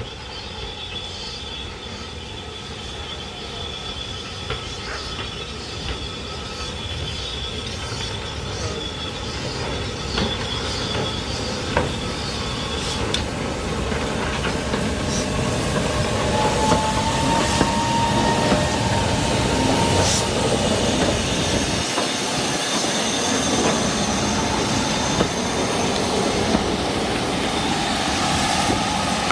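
A train rolls closer and grows steadily louder. Its wheels squeal on the rails, with scattered clicks over the rail joints and a brief higher squeal about halfway through.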